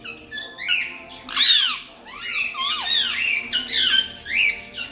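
Pet parrots chirping and squawking: a quick run of high, arching calls, several in a row with short gaps.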